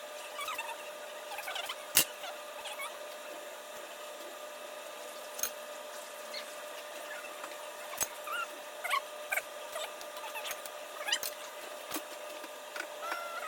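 Kitchen work sounds: a few sharp knocks and many small squeaks over a steady hum.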